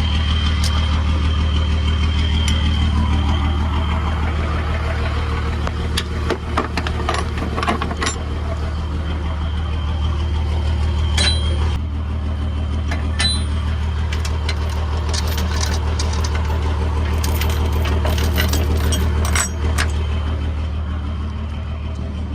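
Rollback tow truck's engine idling steadily, with scattered sharp metallic clicks and clanks from tie-down strap ratchets and hardware being released.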